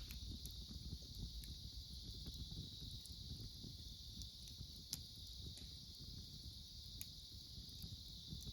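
Wood fire crackling, with a few sharp pops scattered through it, the loudest about five seconds in, over a steady high chirring of autumn insects.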